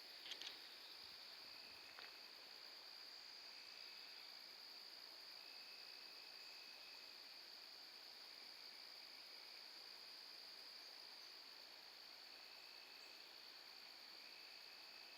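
Faint, steady chorus of crickets, with a lower trill coming and going every few seconds and a couple of soft clicks near the start.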